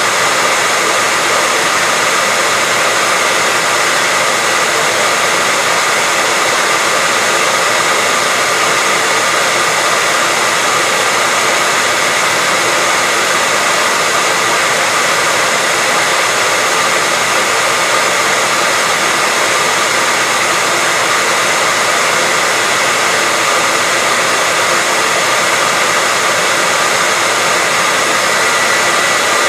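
Hair dryer running steadily: a constant rushing of blown air with a thin, steady high whine, unchanging throughout.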